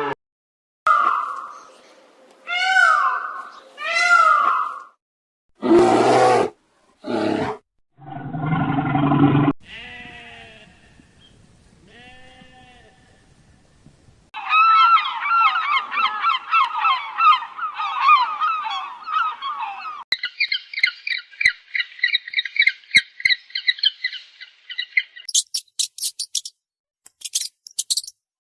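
A sequence of different farm animal calls, one clip after another: honking calls early on, a few short harsh calls, then a long stretch of dense, high chirping and peeping from about halfway, ending with rapid high clicking.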